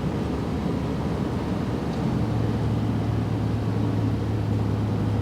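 Car driving on a highway, heard from inside the cabin: a steady rumble of engine and tyre noise. About two seconds in, a low steady hum comes in and stays.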